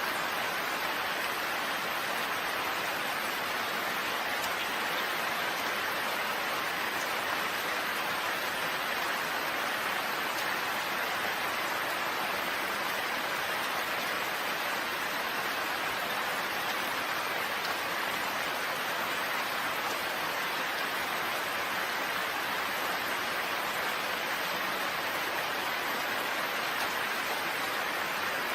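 Steady rain, an even, unbroken hiss of falling rain with no change in strength.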